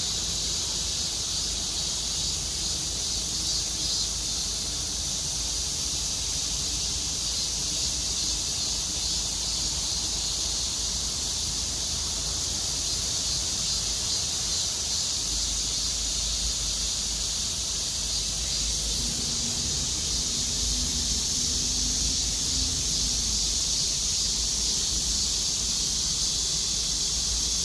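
Chorus of cicadas buzzing on both sides at once, a dense, steady, high-pitched drone with a faint pulsing.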